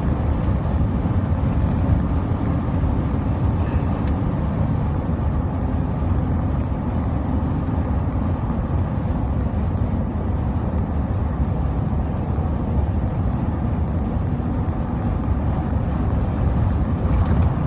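Steady low rumble of freeway traffic and road noise, with big trucks on the road.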